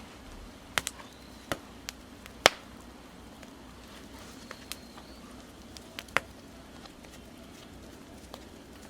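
Burning firewood crackling, with a scattering of sharp, irregular pops and cracks, the loudest about two and a half seconds in.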